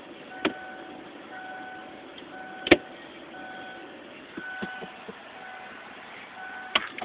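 Vehicle reversing alarm beeping about once a second over a steady vehicle hum, with a few sharp knocks, the loudest about two and a half seconds in.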